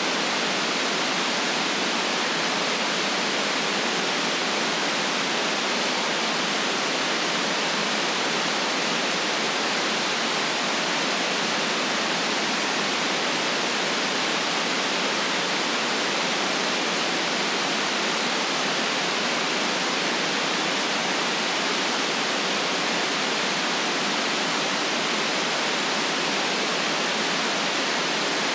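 Steady synthetic white noise, an even hiss with no change, cut off below about 150 Hz and above about 8 kHz, weighted toward the high end.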